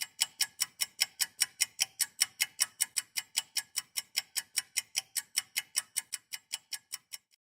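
Rapid, even mechanical ticking, about five sharp ticks a second, growing slightly fainter and stopping shortly before piano music starts.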